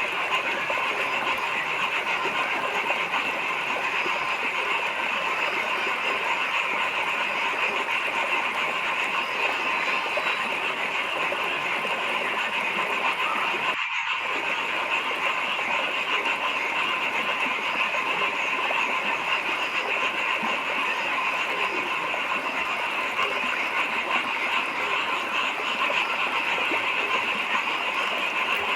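A dense night chorus of many frogs calling at once, steady and unbroken, strongest in a high band.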